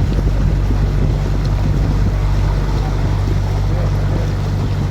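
Canal tour boat's engine running steadily at cruising speed: a constant low drone.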